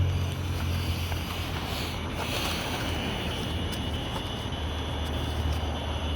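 Low wind rumble on the microphone, with a few faint clicks.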